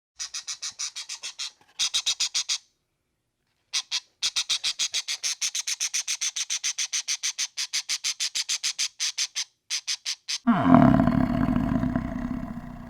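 Animal calls: long runs of rapid, high-pitched chattering pulses, about five a second, with two short breaks. About ten seconds in comes one loud, low roar-like call that falls in pitch and fades.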